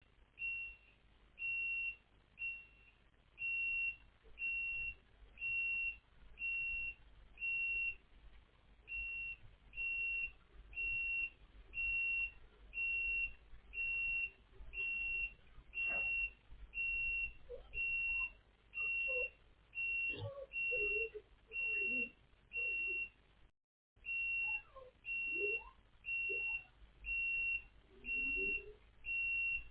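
Massage chair warning beeper: one high, steady beep of about half a second, repeating about once a second without stopping. From about halfway through, a dog makes short pitched sounds that rise and fall between the beeps, with a couple of sharp clicks.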